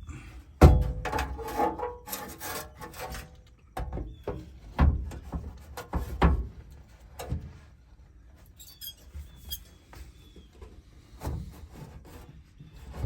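Hand-work noises on the truck: a sharp knock, then about two seconds of rattling and rubbing, followed by separate knocks about once a second that thin out and grow quieter near the end.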